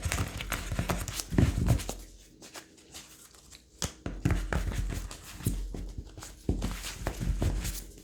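Tarot deck being shuffled and cards handled and laid down: quick, irregular flicks and taps in clusters.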